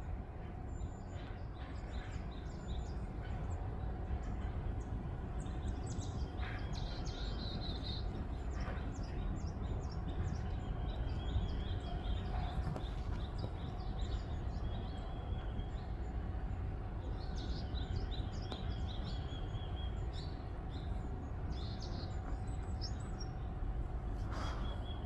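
Small birds chirping and twittering in quick, repeated high calls, over a steady low rumble of wind on the microphone.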